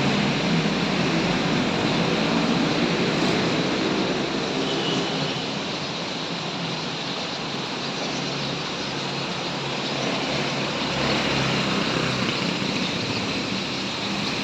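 Steady street traffic noise: road vehicles running and passing, with one engine running steadily under the road noise for most of the stretch.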